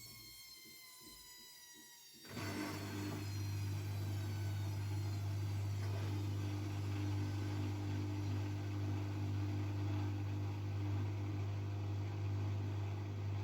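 AEG Lavamat W 1450 washing machine: a motor whine falls in pitch and fades, then about two seconds in a steady low electric hum with a rushing noise starts abruptly and runs on evenly.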